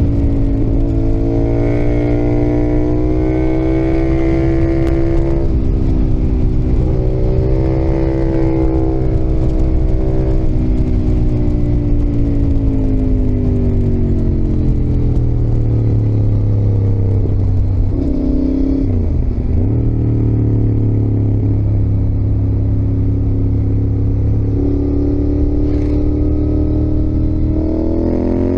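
Yamaha XSR700's CP2 parallel-twin engine under way, its pitch climbing under throttle and dropping at gear changes in the first ten seconds, then easing off for several seconds, a quick change of gear about two-thirds of the way through, and climbing again near the end.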